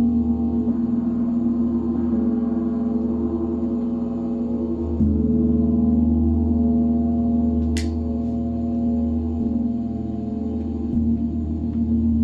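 Gong ringing in a deep, sustained wash of overtones, swelling again about five seconds in and shifting twice more near the end as it is played on. A brief sharp click cuts through about two-thirds of the way in.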